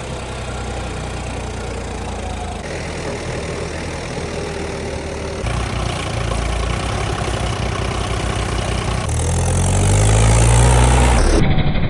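Tractor diesel engines running, the sound changing abruptly a few times; about nine seconds in an engine revs up, rising in pitch and growing louder.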